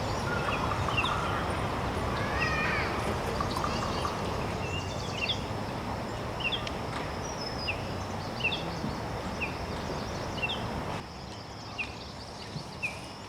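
A bird giving short, sharp high chirps about once a second, with a brief warbling call early on, over a steady rushing background noise that drops suddenly near the end.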